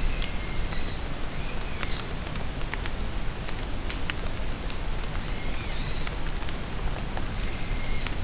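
Steady rain falling in a forest, with individual drops ticking close by. A bird calls four times over it in short high calls, two of them close together near the start and two more later on.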